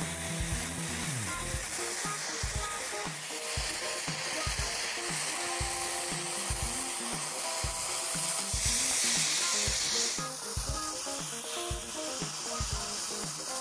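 Oxy-fuel gas torch hissing steadily as its flame heats a steel axe head, louder for a moment a little past the middle, under background music with a steady beat.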